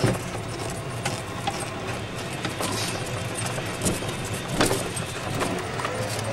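A vehicle's engine running steadily, heard from on board while driving, with a few light rattles and knocks.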